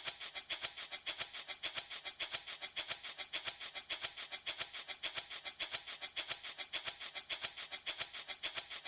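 Handmade baby rattle shaken steadily in a fast, even rhythm of about six strokes a second, each stroke a bright, hissy rattle of loose beads.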